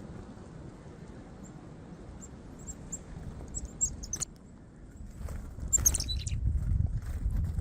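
Small birds chirping in quick, short, high calls, several in a row. A low rumble runs underneath and grows louder in the second half, with a couple of sharp clicks.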